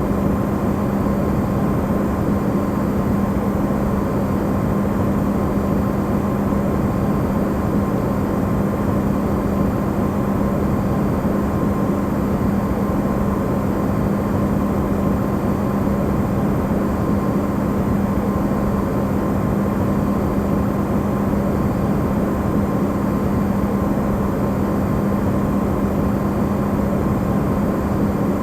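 Electrolux refrigerator running, recorded amplified: a steady, unchanging hum over an even rushing noise.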